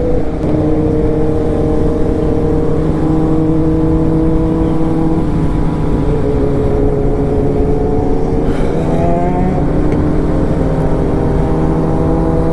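Motorcycle engine running steadily at road speed, with a strong low rush of wind noise. The engine note drifts slowly lower, then about six seconds in it dips and climbs again as the throttle is opened.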